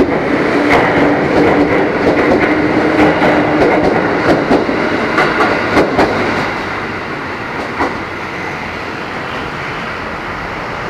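KRL Commuter Line electric multiple unit train running along the platform and pulling away, its wheels clacking over the rail joints with a steady motor hum. The sound drops to a quieter rumble about six seconds in as the last car passes and the train recedes.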